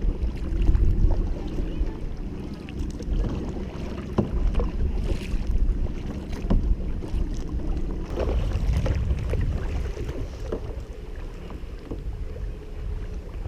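Wind buffeting the microphone out on the lake, a heavy uneven rumble, with a few light knocks and water sounds from the boat or kayak.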